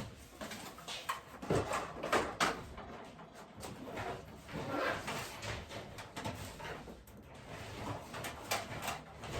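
Irregular knocks, clatters and rustling of household items being handled and moved about, with a few sharper knocks about one and a half to two and a half seconds in.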